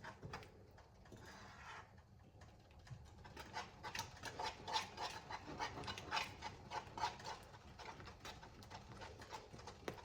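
Faint, irregular scraping and clicking of a spoon stirring a pot of thick cheese sauce on the stove, from about three seconds in. The sauce is sticking to the bottom of the pot and starting to burn.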